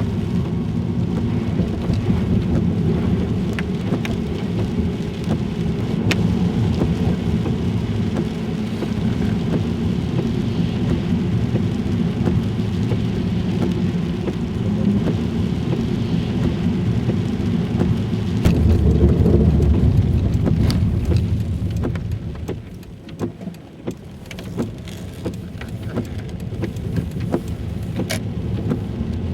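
Car in motion: steady low road and engine rumble with scattered light clicks and knocks. It eases off about two-thirds of the way through, then builds again.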